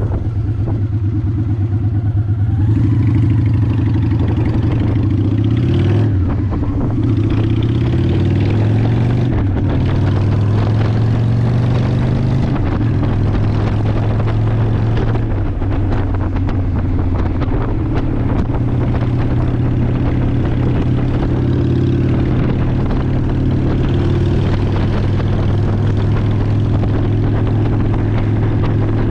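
Honda Shadow ACE 750 V-twin engine running while the motorcycle is ridden, its note stepping up and down in pitch several times as the throttle and speed change.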